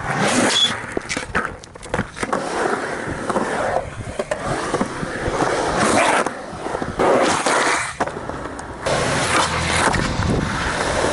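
Skateboard on small 52 mm urethane wheels rolling over pavement: a continuous rolling rumble broken by sharp clacks and knocks. The rolling gets louder and rougher about nine seconds in.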